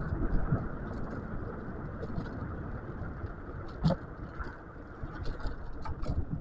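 Rushing wind and road noise from riding an electric scooter running in single-motor mode. Two sharp knocks come about four seconds and about six seconds in.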